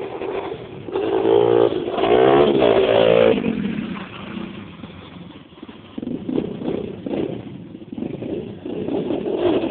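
125cc pit bike engine revving hard, its revs rising and falling for a couple of seconds about a second in, then running at lower, uneven revs.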